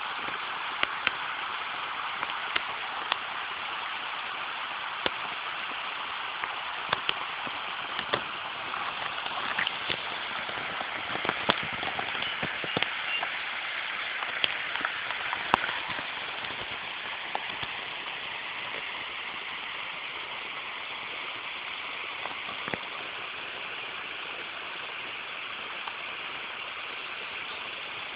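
Water spilling over the small dam of a man-made lake: a steady rushing, with scattered sharp ticks, more of them in the first half.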